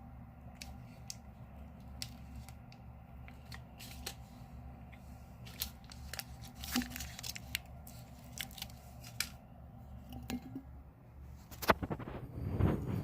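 A cat biting and chewing a meat-stick cat treat: scattered sharp crunchy clicks that come more often after about six seconds, with a louder cluster of knocks and rustling near the end.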